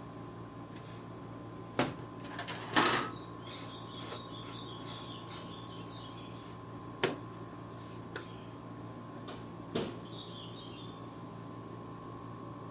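A few sharp clicks and knocks of the PlayStation 3's plastic parts being handled during disassembly, the loudest a short cluster about three seconds in, over a steady low hum.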